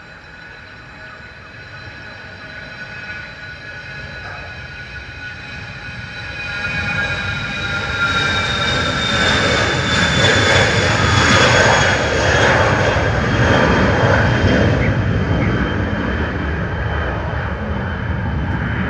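Jet aircraft passing, its engines growing louder over the first several seconds with a high whine that slowly glides lower, then a broad rushing engine noise that peaks about midway and holds.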